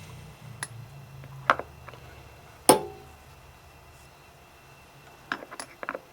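Hand tools and metal parts being picked up and set down on a workbench while a drill and tap are set up: a few separate sharp clicks and knocks. The loudest comes near the middle and rings briefly, and a quick run of small clicks follows near the end.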